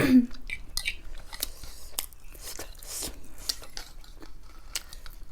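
Close-miked chewing of keema naan, a minced-meat-stuffed flatbread, with irregular soft clicks and crackles of the mouth and bread.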